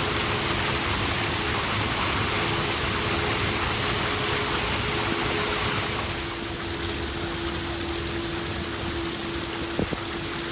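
Steady rushing noise with a steady low hum underneath; the rushing eases a little about six seconds in, and a faint click sounds near the end.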